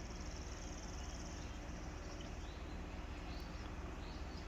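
Faint birds chirping: scattered short high chirps, with a fast, high trill through the first second and a half. A steady low hum runs underneath.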